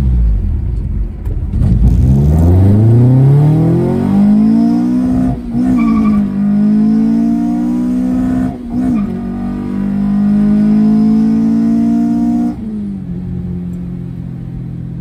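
Stage 2 Honda B20B four-cylinder on individual throttle bodies, heard from inside the cabin, accelerating hard through the gears. Its pitch climbs, drops at two upshifts about five and nine seconds in, and climbs again. About twelve and a half seconds in the throttle closes and it settles to a quieter, lower steady note.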